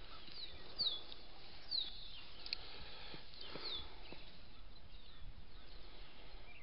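Birds calling: a few short, high whistled notes that slide down in pitch, over a faint steady outdoor hiss.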